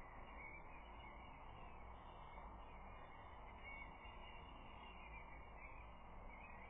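Faint outdoor ambience through a nest-camera microphone: a steady hiss and low hum, with faint distant bird calls now and then.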